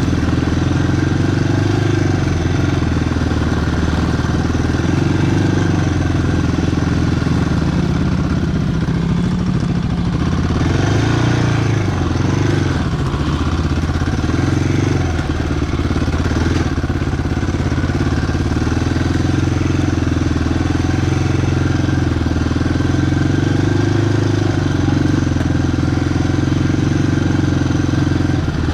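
Single-cylinder ATV engine running steadily while riding, its pitch shifting a little, with a brief rush of added noise about ten seconds in.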